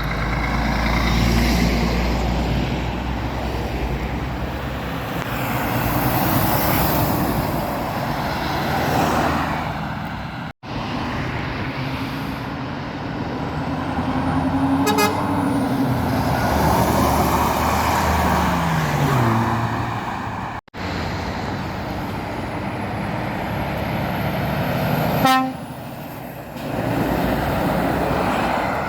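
Heavy lorries passing on a main road, diesel engines and tyre noise rising and fading as each goes by, one engine note falling in pitch as it passes. Two short truck horn toots, one about halfway and one near the end.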